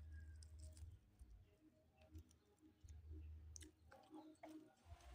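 Faint eating sounds, close to near silence: scattered soft mouth clicks and chewing, with a cluster of clicks near the end.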